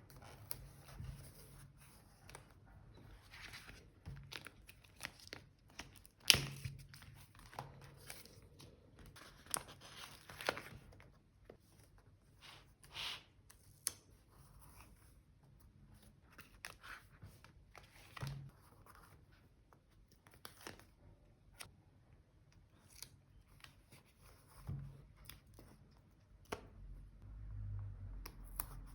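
Paper and stickers handled close to the microphone for journal decorating: irregular tearing and crinkling with small taps and clicks, one sharper tap about six seconds in.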